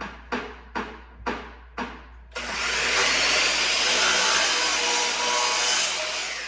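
A few sharp taps about every half second, then a power saw starts suddenly about two seconds in, runs loud and steady through a cut for a few seconds, and begins winding down near the end.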